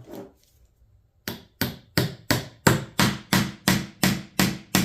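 Hammer driving a finish nail into wood with quick, even taps, about three a second, starting a little over a second in.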